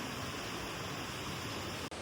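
Steady rushing outdoor noise with no distinct events, broken by a sudden cut just before the end.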